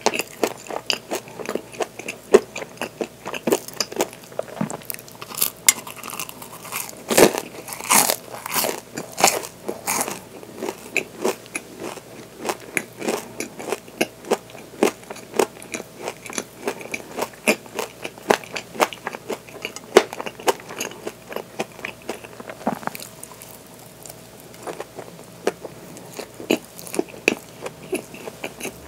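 Chewing and biting a waffle crusted with coarse sugar crystals: a steady run of small crunches and crackling clicks, thickest about seven to ten seconds in.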